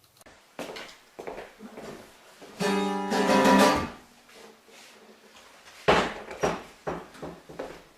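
Acoustic guitar plucked and strummed in short, uneven notes, with one longer ringing chord, the loudest part, about three seconds in.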